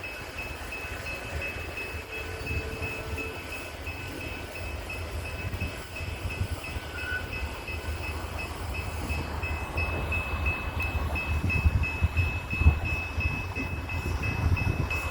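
Freight coal train rolling along the tracks: a steady low rumble of the cars, with a couple of louder knocks near the end. A faint, evenly pulsing high tone runs underneath.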